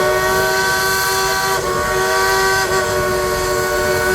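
Baldwin steam locomotive's multi-chime whistle blowing one long held chord, with two slight dips about one and a half and two and a half seconds in.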